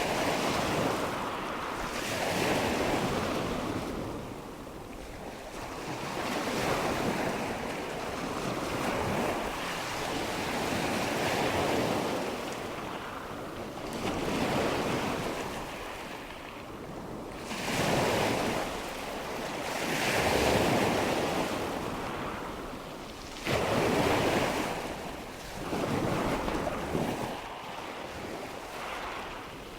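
Ocean surf: waves washing in, swelling and fading every three to four seconds, with a few breaking more sharply.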